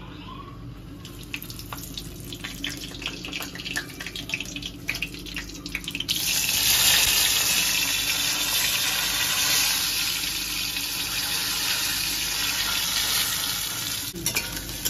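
Whole spices frying in hot oil in a wok: scattered crackling at first, then about six seconds in a sudden, loud, steady sizzle.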